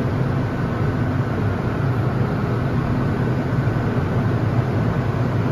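Steady low hum and rumble inside a Hong Kong MTR M-train car standing at a station platform with its doors closed. No motor whine or change in pitch.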